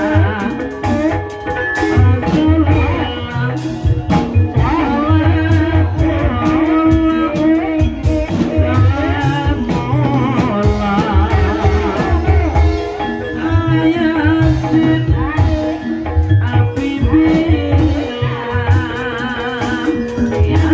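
Live gending ebeg accompaniment: Javanese gamelan-style ensemble with drums and sharp percussion strokes under a wavering sung melody.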